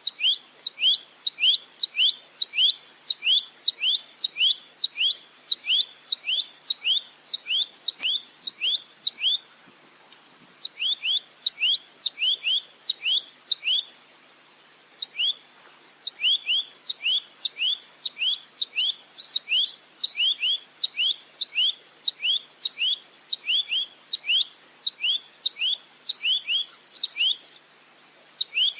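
A rambatan (nuthatch) calling in rapid runs of sharp, hooked chip notes, about three a second, with brief pauses between the runs.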